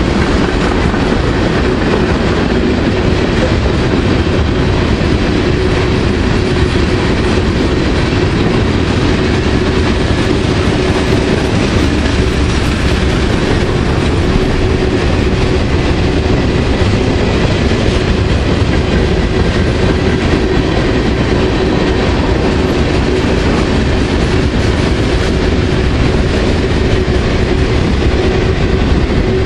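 Freight train rolling slowly past, its cars clacking over the rail joints in a steady, loud rumble.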